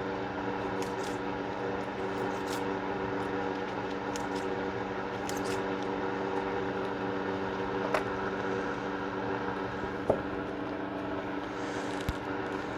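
Steady mechanical hum made of several even, unchanging pitches, with a few light clicks about eight, ten and twelve seconds in.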